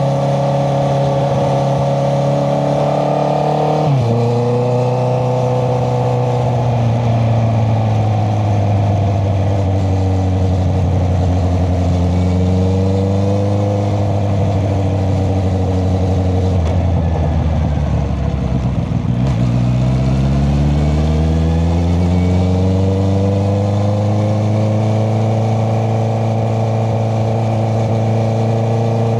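Honda CBR650R's inline-four engine through an Akrapovic exhaust, heard while riding. The revs build, then drop sharply about four seconds in at an upshift. They fall slowly for the next several seconds as the bike slows, then rise steadily again from about two-thirds of the way through.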